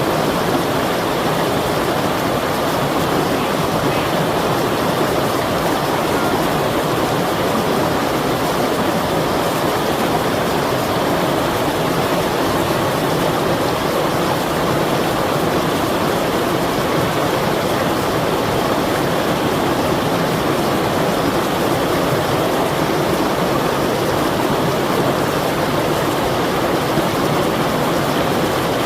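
Flowing water rushing steadily, an even unbroken sound with no surges or lulls.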